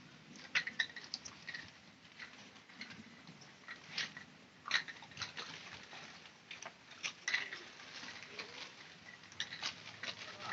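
Dogs fighting: scattered short, sharp snaps and brief yelps at irregular intervals.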